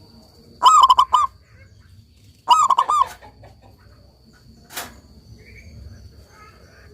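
Zebra dove (perkutut) cooing: two phrases of three or four quick, ringing notes, about two seconds apart. A single sharp click comes near the end, and a faint steady high whine runs underneath.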